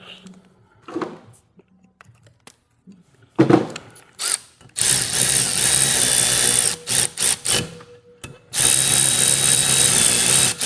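A power drill driving a valve spring compressor on an LS cylinder head, to compress the valve springs. A few light clicks come first, then the drill runs steadily for about three seconds. After a few short trigger blips it runs again for about two seconds.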